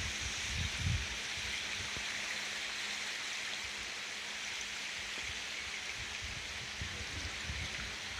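Steady rushing hiss of water along a cruise ship's hull as it moves through broken ice, over a faint steady low hum. A few low thumps come about a second in and again near the end.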